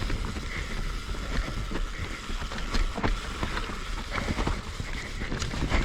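Mountain bike rolling fast down a dirt trail: wind rushing over the microphone with a steady low rumble, and frequent short rattles and knocks from the bike as the tyres run over roots and rocks.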